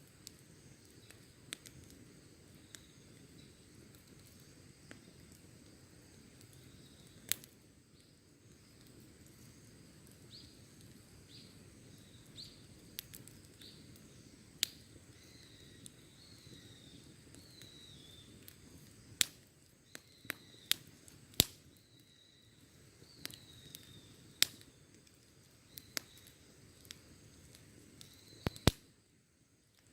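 Wood campfire crackling, with sharp irregular pops that come more often and louder in the second half, over a low steady rush of burning. Faint high chirping runs through the middle.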